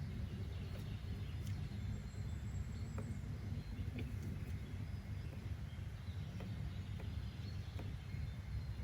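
Nature-sound ambience: a steady low rumble with faint, scattered bird chirps and a few soft clicks.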